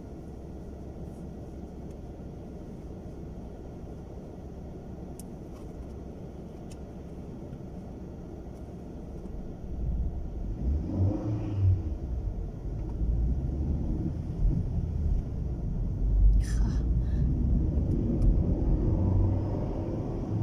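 Car engine and road rumble heard from inside the cabin. A low steady rumble for about ten seconds, then the car pulls away and the rumble grows louder, with the engine's pitch rising as it accelerates.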